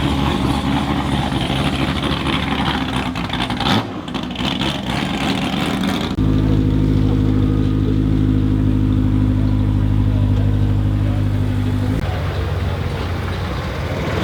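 Car engine running at idle with a steady low rumble. It becomes louder and steadier about six seconds in and drops back about twelve seconds in.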